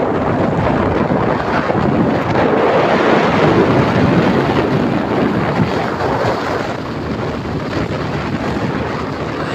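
Wind buffeting the microphone: a loud, steady rushing noise with no tone in it.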